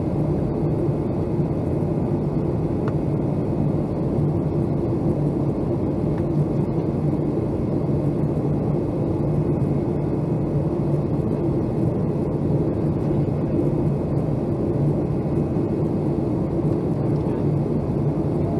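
Steady cabin noise inside a Boeing 757-200 airliner in flight: a constant rush of air over a low, even engine hum.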